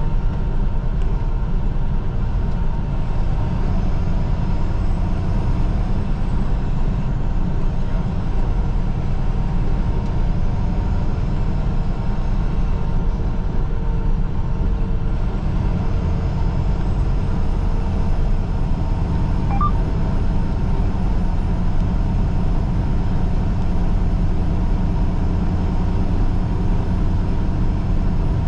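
Semi-truck engine and tyres running at a steady highway cruise, an even low rumble heard from inside the cab.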